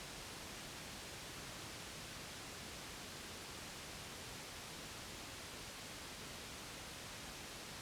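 Steady white noise: an even, unchanging hiss with no breaks, a baby-sleep white-noise track.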